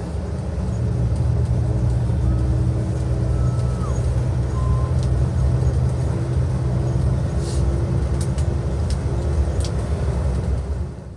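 Cabin noise inside a moving tour bus: a steady low engine and road rumble with a constant hum, and a few light rattles or clicks in the second half. It cuts off suddenly at the very end.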